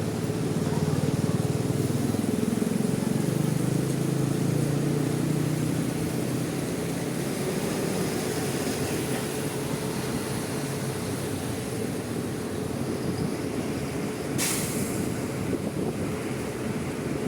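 Bus engine running, loudest in the first few seconds and then easing off, over a steady hiss of background noise. A short, sharp hiss comes about fourteen seconds in.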